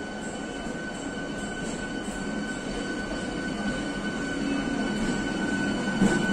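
An electric multiple-unit local train moving along the platform: a steady rolling rumble of wheels and coaches that grows louder, with a steady high whine throughout. A single sharp knock comes about six seconds in.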